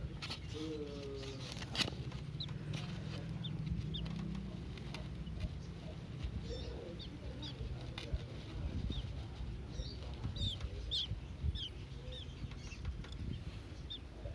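White-rumped shama nestlings giving short, high chirps in scattered runs, over a steady low hum and a few handling clicks.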